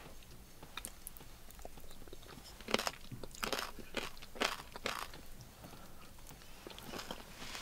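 Close-up chewing of corn porridge (kulesha) with crisp pork cracklings: a quick run of crunches in the middle, then a few more near the end.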